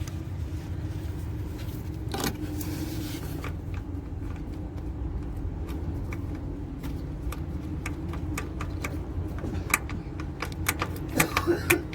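Old Ashok Leyland bus diesel engine running steadily just after a cold start, with irregular sharp clicks over it that come several in quick succession near the end.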